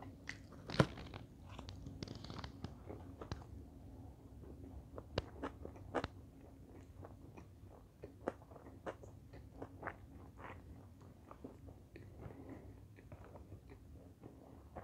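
A bite into a sushi roll with a crispy crumb coating: one crunch about a second in, then scattered soft crunches and clicks as it is chewed.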